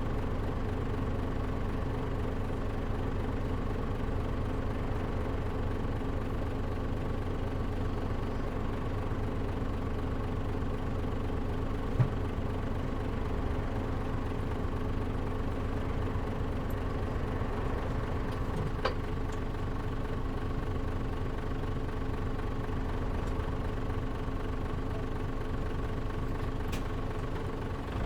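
Diesel engine of a Mitsubishi Fuso KL-MP37JM city bus idling steadily, heard from inside the cabin, with the air conditioning off. There is a single sharp click about twelve seconds in.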